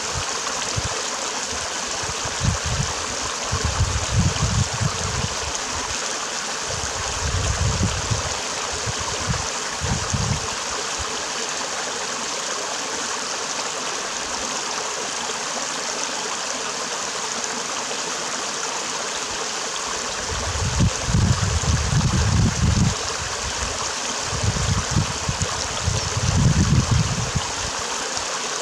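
Stream water running steadily over rocks, a continuous rushing with a gurgling trickle in it. Low rumbles rise over it several times and are the loudest thing heard.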